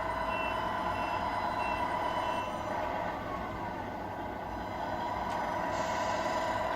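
Tamiya 1/14 radio-controlled truck running, a steady mechanical whine with several held tones over a rumble.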